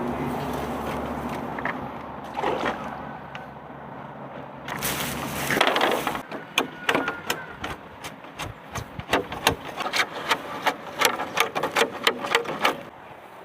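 A steady motor hum that stops about six seconds in, followed by a run of sharp knocks, about two a second.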